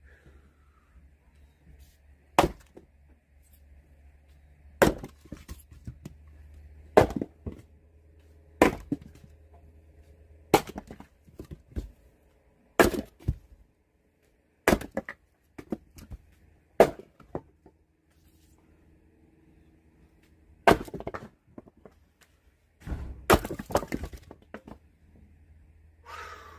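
Axe striking and splitting firewood logs: sharp chopping blows about every two seconds, then a short pause and a quick cluster of hits near the end.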